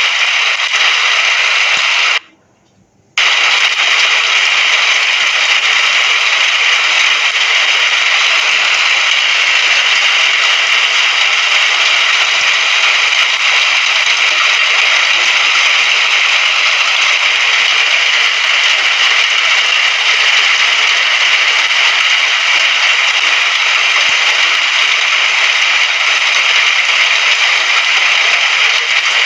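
Steady, dense rain, an even hiss with no pattern or rhythm. It cuts out abruptly for about a second, around two seconds in, then resumes at the same level.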